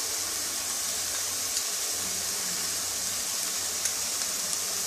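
Grated beetroot paste sizzling in a nonstick frying pan, a steady hiss with a few faint ticks.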